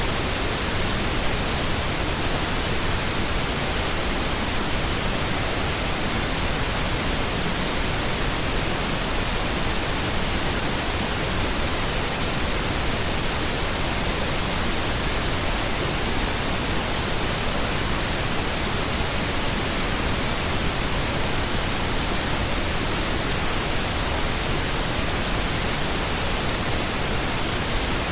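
Steady synthetic pink noise: an even, unchanging hiss spread across all pitches, deeper and softer than white noise, close to the sound of ocean surf.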